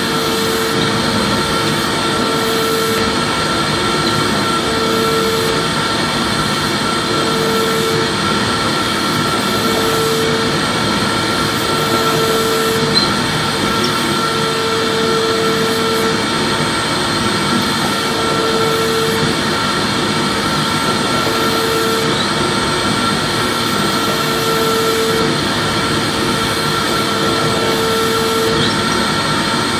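Vacuum cleaner running steadily: an even rushing noise with a constant high whine, and a lower hum that fades in and out every second or two.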